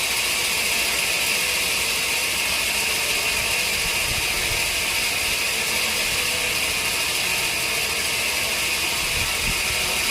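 Sawmill machinery running with a steady, high-pitched mechanical noise that does not change.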